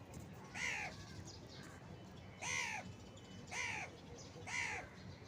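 A crow cawing four times at uneven intervals, each caw a short, harsh call that rises and falls in pitch.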